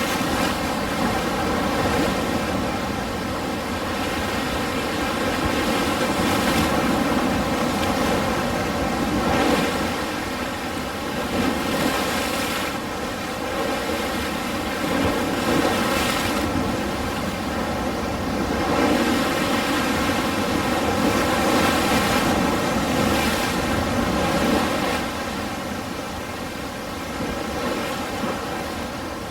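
Ocean waves: a steady rush of surf that swells and eases every few seconds.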